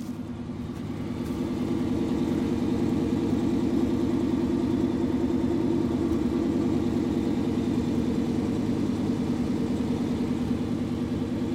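The V8 of a 1988 Chevrolet pickup idling steadily through a MagnaFlow performance exhaust. It grows louder over the first couple of seconds, then holds an even, pulsing idle.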